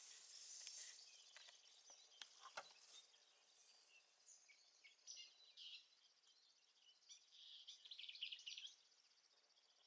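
Faint birdsong: high chirps and trills, busiest and loudest near the end. A few soft clicks come in the first three seconds.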